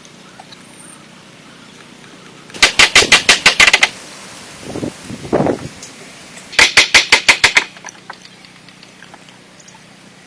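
Two short runs of rapid, sharp knocks, about eight a second and each lasting about a second, a few seconds apart, with a lower-pitched swell between them.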